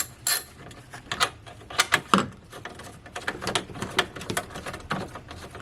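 Hand ratchet and metal tools clicking and clinking irregularly while the strut brace bolts are turned out by hand.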